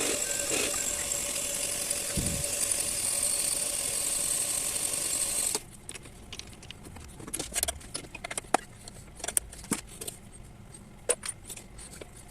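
Metal lathe running with a steady hum and whine, cutting off abruptly about five and a half seconds in. After that come light, scattered metallic clicks and clinks.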